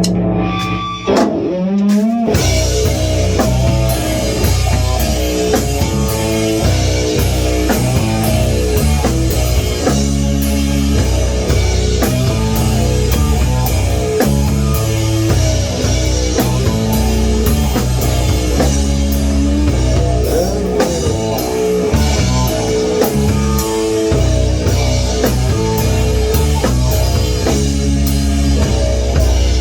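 Rock band playing a song on guitar and drum kit. It opens with a single note bent upward, and the full band comes in about two seconds in.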